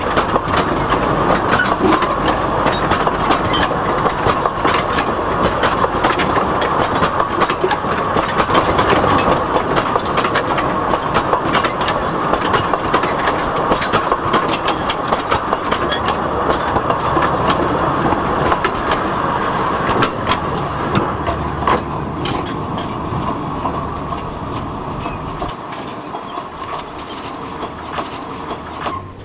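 Narrow-gauge industrial salt-railway train rattling past, its wagons clattering over the rail joints with a steady ringing note under the clatter. The sound slowly fades over the last several seconds as the train moves away.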